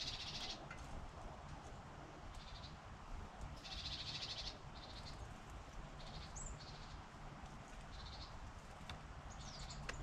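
A bird's harsh, buzzy chattering calls, given in about seven short bursts, the longest lasting about a second near the middle.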